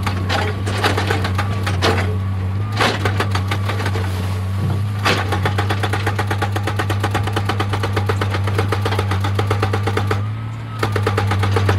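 Excavator's diesel engine running under load while its hydraulic rock breaker hammers stone in a rapid, steady rattle of blows, pausing briefly near the end before starting again.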